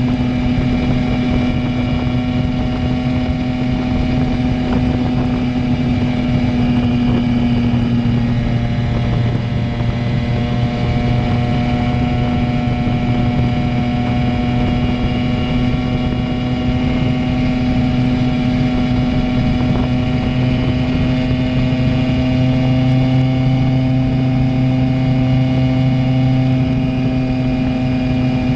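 Simson moped's two-stroke engine running at a steady cruise through a JW G85 aftermarket exhaust, its pitch dipping slightly about a third of the way in and then slowly rising.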